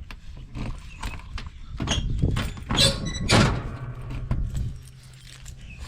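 Boots crunching and scuffing through deep, ice-crusted snow in a run of uneven steps, loudest just past the middle. A steady low hum sets in about halfway through and stops shortly before the end.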